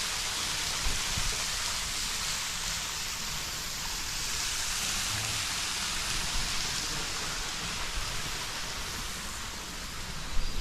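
Waterfall pouring and splashing: a steady, even hiss of falling water.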